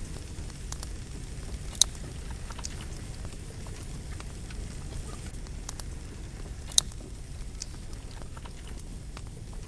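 Wood campfire burning with a steady low rush of flame, scattered small crackles, and two loud sharp pops of the logs, about two seconds in and again nearly seven seconds in.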